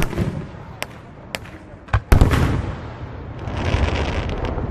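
Aerial fireworks exploding: a few sharp bangs in the first two seconds, then a big boom about two seconds in that rumbles on, and a spell of dense crackling near the end.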